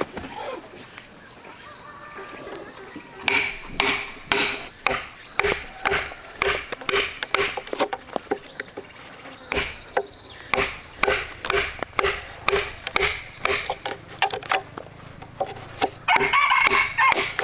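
Repeated blows striking wood, about two a second, starting a few seconds in. A steady high insect drone runs underneath, and a louder burst comes near the end.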